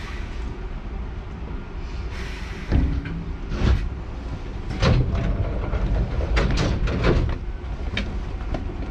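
Hankyu 7000 series electric train running, heard from inside the car: a steady low rumble with about half a dozen sharp knocks from the wheels and track, bunched in the middle.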